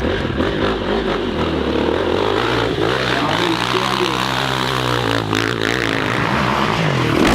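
Hill climb dirt bike engine running hard at high revs, the pitch shifting up and down as the throttle is worked.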